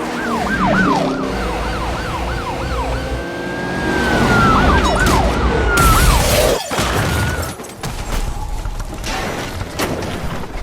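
Several sirens yelping and wailing over one another, their pitch sweeping rapidly up and down; one drops steeply in pitch about six and a half seconds in. Sharp bangs follow in the second half.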